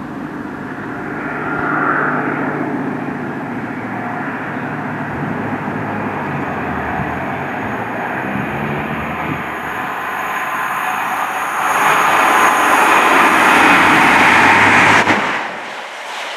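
Train approaching and running through a station at speed: a steady rumble that builds to its loudest over the last few seconds as the carriages pass, then drops away suddenly near the end.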